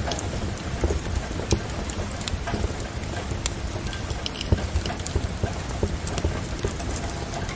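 Wood fire crackling with irregular sharp pops, over a steady hiss of rain and a low rumble.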